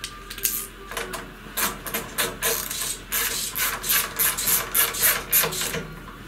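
Hand wrench tightening the carburetor onto a small cultivator engine: a run of quick, irregular rasping strokes, a few a second.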